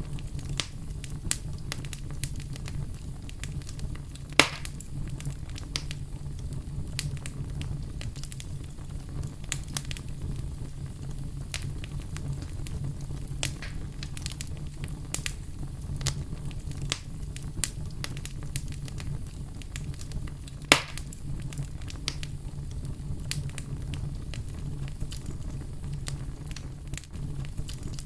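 Wood fire crackling, with frequent irregular snaps over a low steady rumble of flame, and two louder pops, one a few seconds in and one about two-thirds of the way through.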